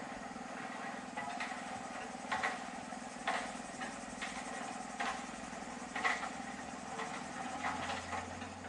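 Steady mechanical hum from a running machine, with irregular short knocks or clatters about once a second.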